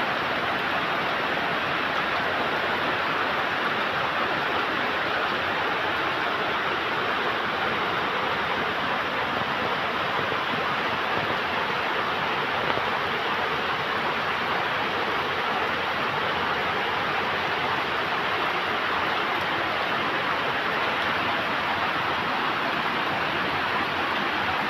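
Heavy rain falling, a steady even hiss with no breaks or changes.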